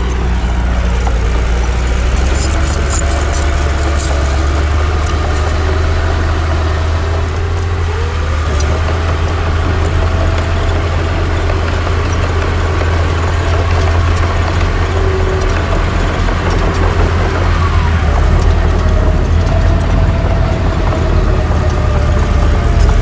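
Heavy diesel engine of a crawler bulldozer running steadily with a deep rumble, with scattered metallic clicks and a faint whine that rises and falls above it.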